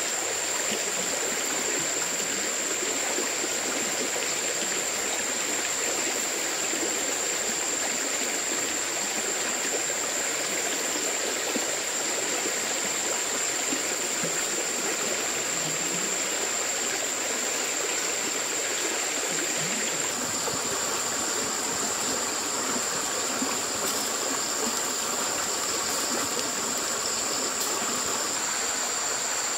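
Steady rushing of a flowing stream, with a constant high-pitched whine above the water; the water's sound shifts slightly about two-thirds of the way through.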